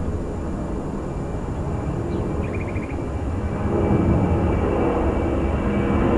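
Jet airliner engines rumbling steadily, growing louder about four seconds in as the aircraft comes closer. A brief high trill sounds about two and a half seconds in.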